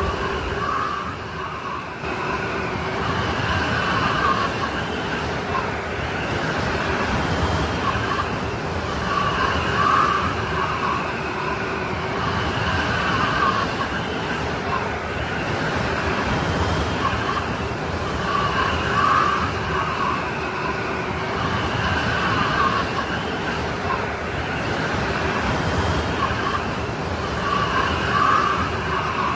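Strong snowstorm wind blowing steadily, with whistling tones that rise and fall every few seconds.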